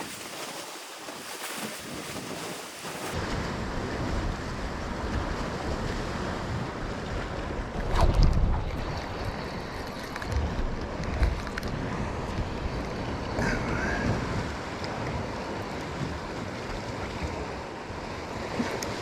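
Sea waves washing against a rocky shore, with wind buffeting the microphone, heavier from about three seconds in, and a brief louder burst about eight seconds in.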